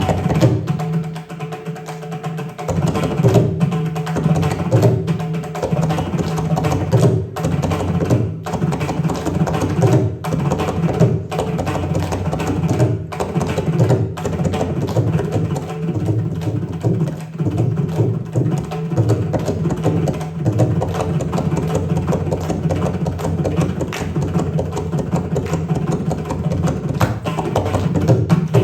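Indian classical hand drums playing a dense, fast Carnatic rhythm over a steady low tone. The playing grows fuller about two and a half seconds in.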